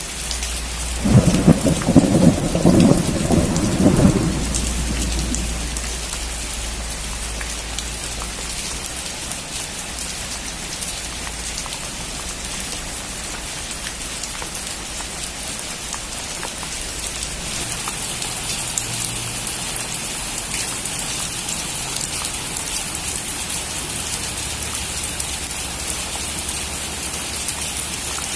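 Steady rain falling, with a thunderclap about a second in that rumbles for a few seconds and fades by about five seconds in. The rain hiss turns a little brighter past the middle.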